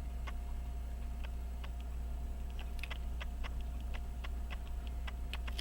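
Faint, irregular light clicks and taps of small metal tools on pocket-watch parts during reassembly, over a steady low electrical hum.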